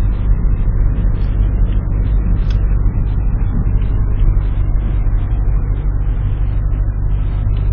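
Steady low drone of a car on the move, heard from inside the cabin: engine and tyre noise with no distinct events.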